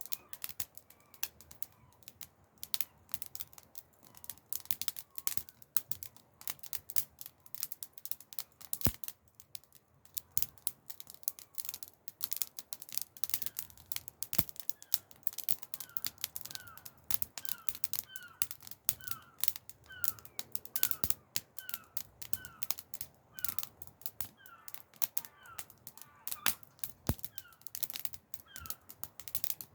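Wood campfire crackling: irregular sharp pops and snaps, several a second.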